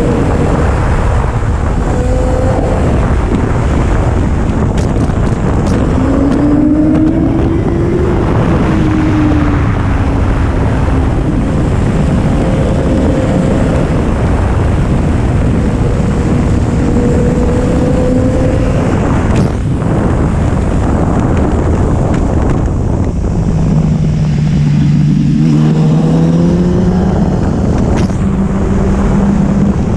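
2011 Kawasaki ZX-10R's inline-four engine running on the move under heavy wind noise on the microphone. Its pitch rises and falls with throttle and gear changes.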